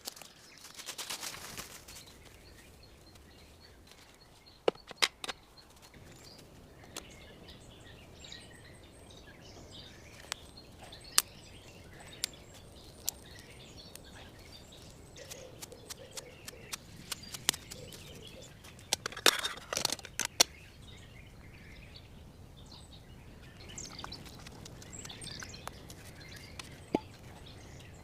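Forest ambience with small birds chirping now and then, broken by scattered sharp clicks and knocks, several together about two-thirds of the way through, and a short rustle about a second in.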